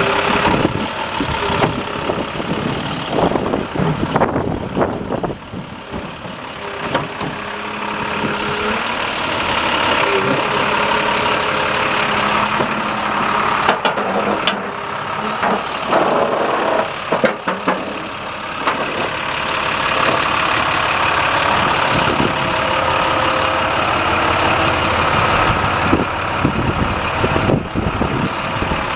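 The diesel engine of a 2012 International 7400 plow truck running, with scattered clanks and knocks over it.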